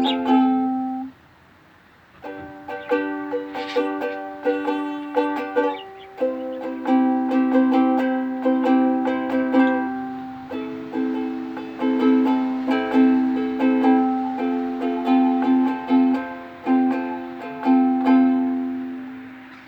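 Ukulele being played, a run of picked notes over a held low note. The playing stops for about a second near the start, then picks up again.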